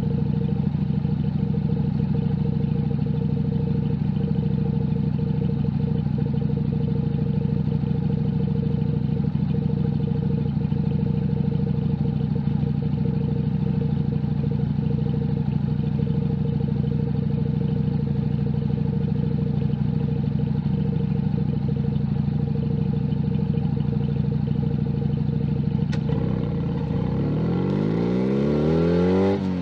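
Junak M11 Cafe's 125cc single-cylinder engine running steadily at constant revs. About 26 seconds in there is a click, then the revs climb as the bike accelerates, dropping back once near the end at a gear change.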